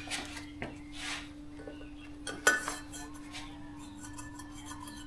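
Light metallic clinks and taps as a cylinder-head valve and tools are handled during valve lapping, the loudest about halfway through, over a steady low hum.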